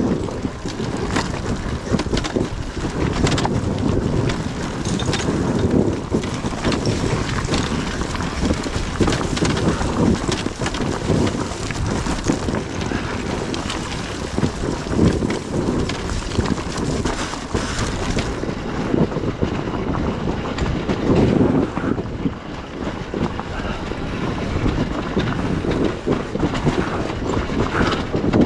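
Wind buffeting the microphone of a moving enduro motorcycle, with the bike's engine and rough-ground rattle running underneath.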